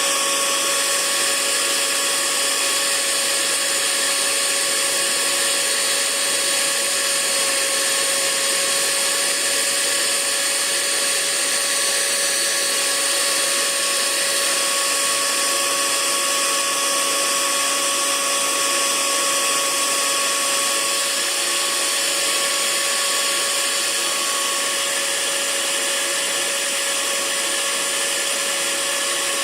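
Hair dryer running steadily: a continuous hiss of rushing air with a steady motor whine underneath, unchanging throughout.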